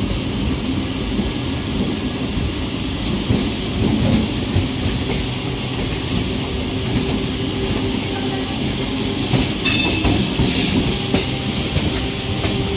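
MEMU electric train running at speed: a steady rumble and hum with wheels clacking over the rail joints, and a few sharper clacks about ten seconds in.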